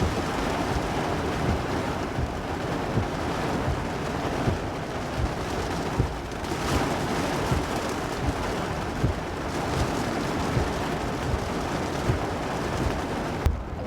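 Heavy downpour with strong wind gusting on the microphone in low thumps. Near the end the rain's hiss drops away suddenly.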